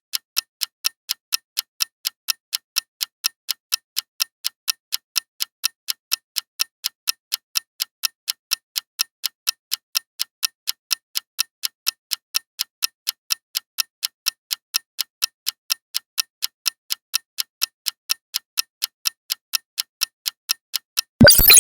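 Countdown timer ticking, a steady train of sharp clicks at about three a second. Near the end it is cut off by a loud, sudden sci-fi end alert, like a blast, signalling that time is up.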